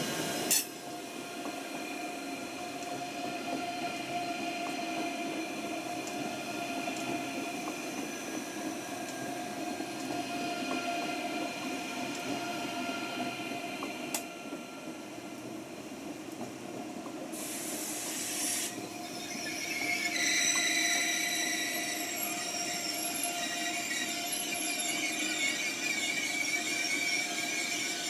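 Train moving on the station tracks, with steady whining tones and metallic wheel squeal that grows stronger in the last third. There is a sharp click just after the start, a lighter one about halfway, and a brief hiss about two-thirds through.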